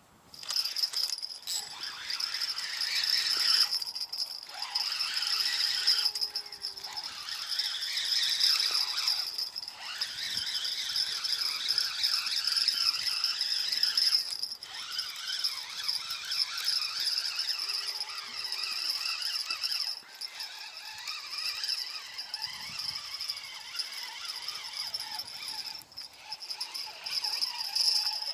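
Insects chirring in a dense, continuous high-pitched chorus, with a steady shrill tone over a busy rattling texture.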